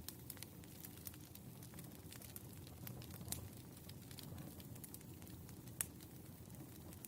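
Wood fire crackling softly: a low steady rush of burning with irregular sharp pops and snaps, two louder pops a little before halfway and about two thirds through.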